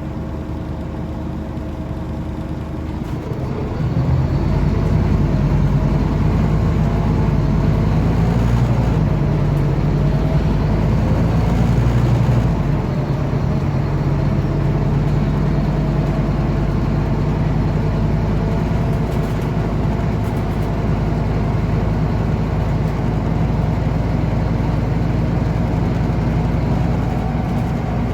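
Scania OmniCity city bus heard from on board, its diesel engine idling at first. About three seconds in, the engine note rises and grows louder as the bus pulls away and accelerates. A little before halfway it eases off into steady running.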